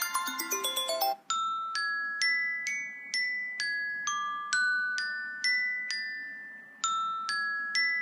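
iPhone iOS 7 ringtones playing. A fast run of bell-like mallet notes stops about a second in, then a different ringtone starts: single chiming notes, about two a second, in a phrase that starts over near the end.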